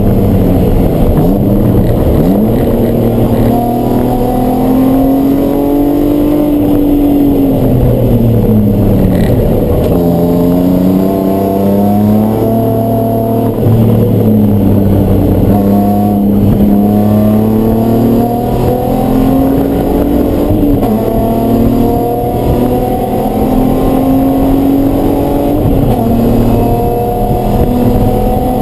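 Race car engine at speed on track, loud, its pitch climbing and falling again and again, with sudden drops between climbs as it shifts gear and comes off the throttle.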